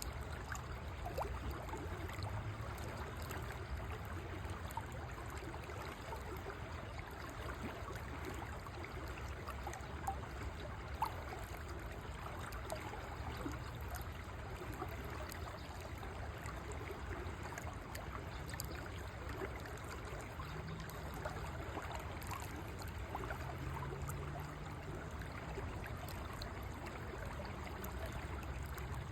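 River water flowing steadily over stones, a continuous rushing with small gurgles and splashes, and a sharper splash or click about eleven seconds in.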